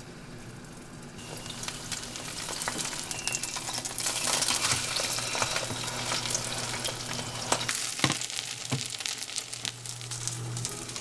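Food sizzling in a hot pan, starting about a second in and getting louder around four seconds, with scattered clicks of a utensil as it is stirred.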